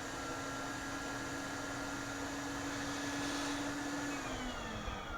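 Hot air rework station's blower running with a steady whine, then winding down in pitch about four seconds in as it shuts off.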